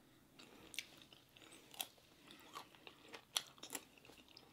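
Faint, close-up chewing of a slice of mango topped with squid adobo in its ink: scattered, irregular small wet mouth clicks.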